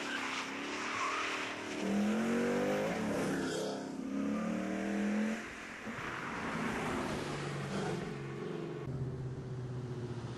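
Ford Mustang GT V8, fitted with an aftermarket BBK throttle body, accelerating hard. The engine's pitch climbs twice as it pulls through the gears and passes by. After a cut about six seconds in, the engine runs at a low, steady speed.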